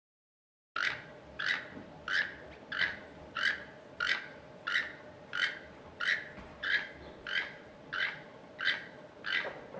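A toucan calling over and over, one short call about every two-thirds of a second, starting just under a second in.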